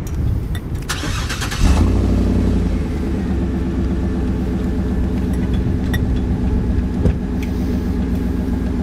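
2014 GMC Yukon Denali's V8 being started: a brief burst of starter cranking about a second in, then the engine catches and settles into a steady idle.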